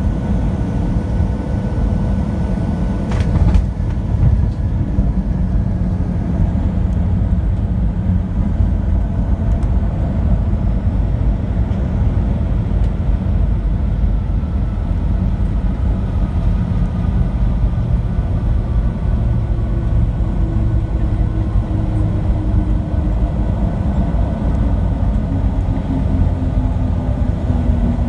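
Steady cabin rumble of a Boeing 737-700 airliner in flight, its CFM56 engines and airflow droning, with a brief click about three seconds in. In the second half an engine whine falls slowly in pitch as the engines spool down.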